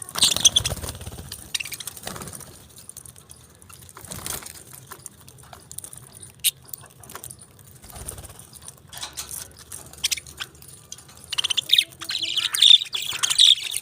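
Pet budgerigars chirping: a rustling flurry at the start, then scattered short chirps and clicks, and a busy run of chirping near the end.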